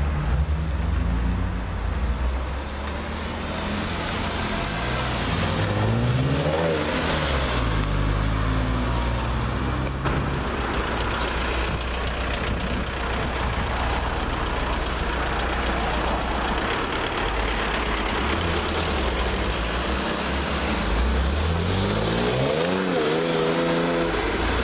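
TechART Cayman GT Sport's flat-six engine idling steadily, revved up and back down twice: once about six seconds in and again near the end.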